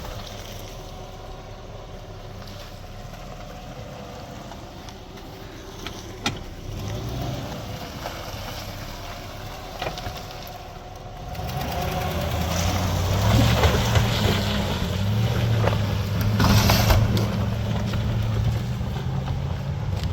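Old GMC Z71 pickup's engine running at low revs, then revving up and working harder from about halfway through, its pitch rising and falling, with a few short knocks before that.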